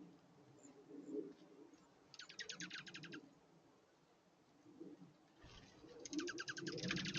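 A small songbird singing a rapid trill of evenly repeated notes, twice: once about two seconds in, lasting about a second, and again near the end. Under it there is a faint, uneven low sound.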